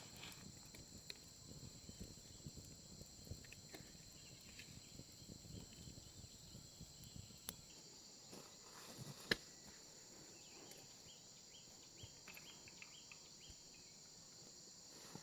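Faint steady chorus of insects, a continuous high-pitched drone, with scattered soft ticks and one sharper click about nine seconds in.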